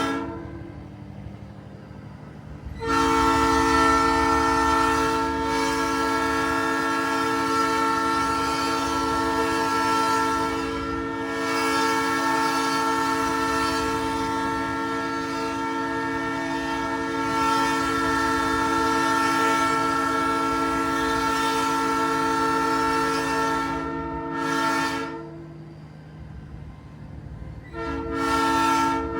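Nathan Airchime P3 three-chime train horn on a big rig, sounding a chord. It is blown in one long blast of about twenty seconds with a brief dip near the middle, then a short blast, then another beginning near the end. The truck's low running rumble is underneath.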